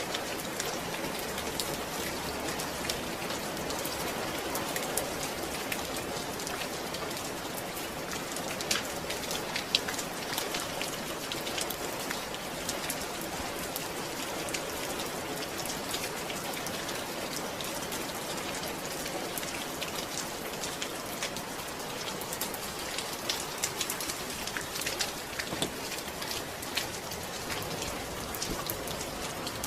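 Steady rain falling, with many small drop impacts pattering on a surface.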